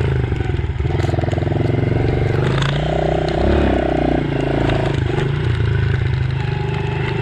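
Dirt bike engine running under way, its pitch shifting up and down with the throttle.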